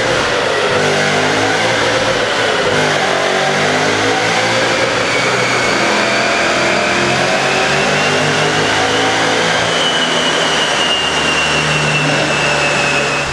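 BMW M5 E39's 5.0-litre S62 V8 running hard under load on a chassis dyno, its wheels turning the rollers. A high whine rises slowly in pitch over the engine note and eases off a little near the end.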